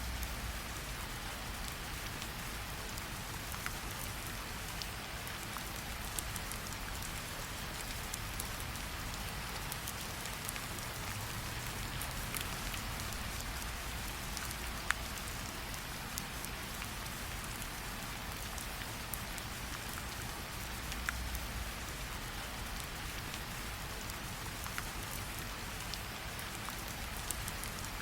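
Steady rain falling, with scattered sharp pops from a crackling campfire; one pop about halfway through is louder than the rest.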